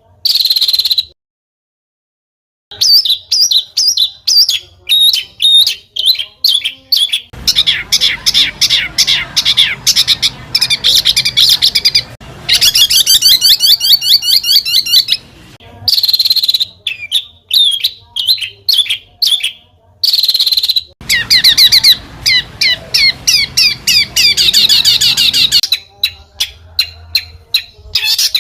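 Small songbird singing fast: rapid chattering notes and dense trills, high-pitched and loud. It breaks off in abrupt cuts, with a brief silence about a second in.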